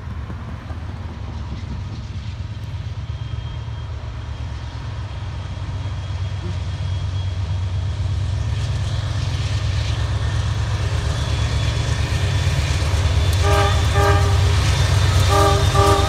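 Diesel locomotives of an approaching freight train running, a low rumble that grows steadily louder. Near the end a locomotive air horn sounds short blasts in two quick pairs.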